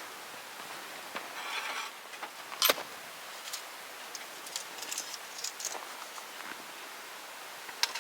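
Wood campfire crackling, with scattered small snaps and a loud sharp pop about two and a half seconds in and another near the end.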